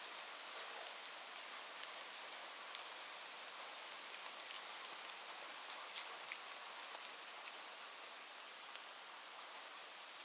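Steady rain falling, a soft even hiss with scattered sharp drop ticks.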